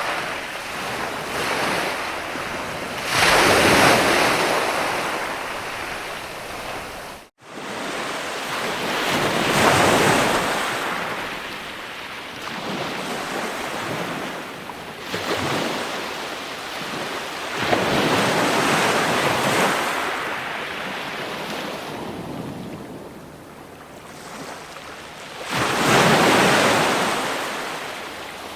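Ocean waves breaking and washing onto shore, the rushing noise swelling into a loud surge every six to eight seconds and easing back between. The sound cuts out for an instant about seven seconds in.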